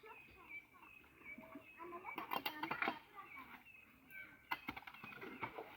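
Birds calling in short, repeated high chirps, with two brief bursts of knocking and scraping from the work about two and four and a half seconds in.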